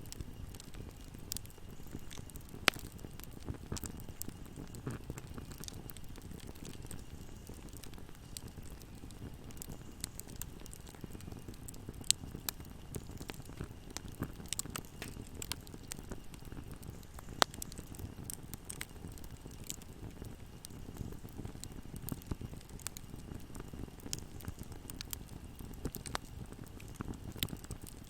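Fireplace fire burning with a steady low rumble and continual crackling. A few louder, sharp pops stand out: one about three seconds in, one near the middle, and one a little after.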